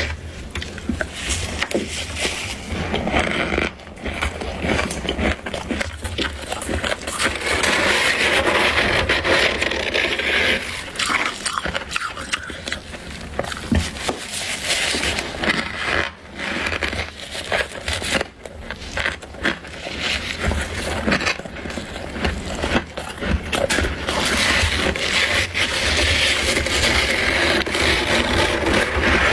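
Hands scraping crunchy freezer frost grown with a humidifier: a continuous gritty scraping full of tiny crackles, with a few brief lulls.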